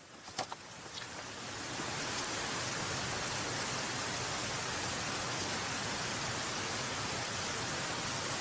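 Yakitori skewers sizzling on a charcoal grill: a steady hiss that builds over the first couple of seconds and then holds even, after a few small ticks at the start.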